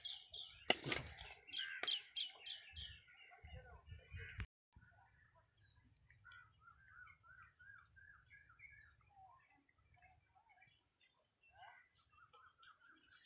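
Steady high-pitched drone of insects (crickets or cicadas), with birds calling in quick repeated series over it, the calls heard as clucking. The sound drops out briefly about a third of the way in.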